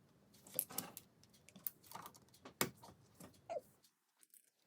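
Plastic LEGO pieces handled and pressed together: a handful of separate faint clicks and light rattles.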